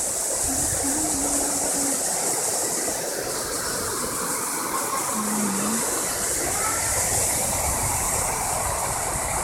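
Waterfall rushing into a pool: a steady, even rush of falling water.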